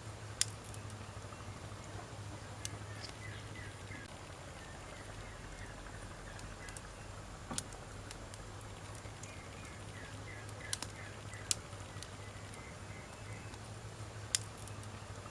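Wood campfire burning, with sharp crackles and pops scattered every few seconds over a steady low background.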